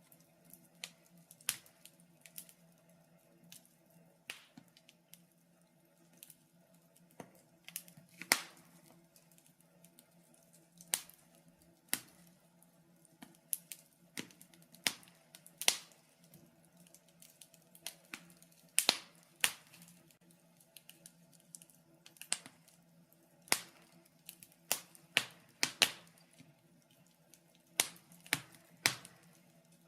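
Wood fire crackling in a fireplace: irregular sharp snaps and pops of burning logs, some much louder than others, over a faint steady hum.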